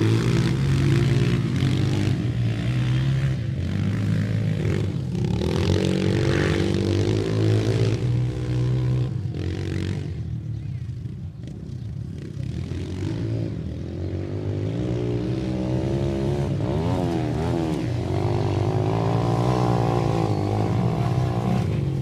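Dirt bike engines running and revving, with the pitch rising and falling as the throttle changes; the sound drops off somewhat about halfway through, then builds again.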